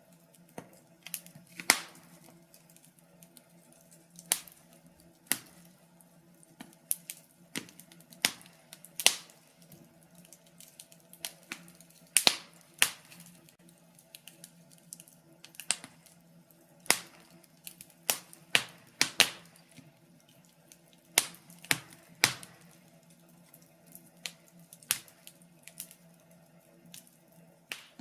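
Wood fire crackling: irregular sharp snaps and pops, some much louder than others, over a faint steady hum.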